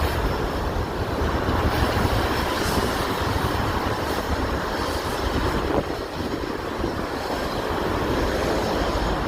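City street noise: wind buffeting the phone's microphone over a steady rumble of passing traffic.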